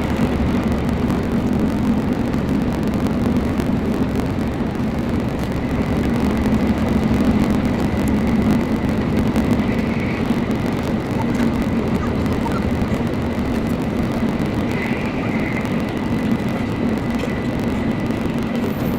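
Shinkansen bullet train running at speed, heard inside the passenger cabin: a steady, unbroken rumble with a faint high steady tone above it.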